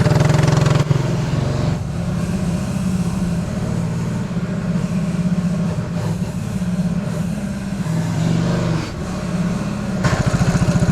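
Small mini bike engines running at low speed, a steady low chugging. It drops in level about a second in and comes back louder near the end.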